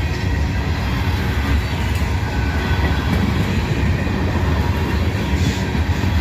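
Freight train cars rolling past: steel wheels on the rails making a steady rumble.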